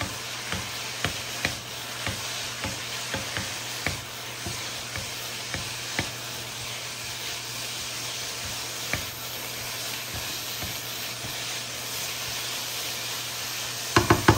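Shredded potatoes sizzling steadily as they fry in oil in a nonstick frying pan. A wooden spatula stirs them and knocks against the pan, often in the first half, now and then after that, and in a louder flurry near the end.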